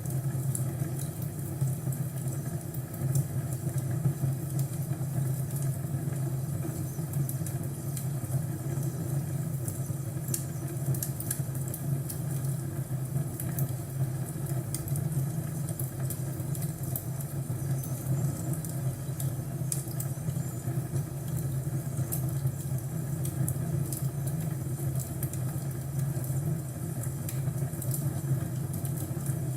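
Crackling fireplace: a wood fire burning, with a steady low rumble under scattered sharp crackles and pops.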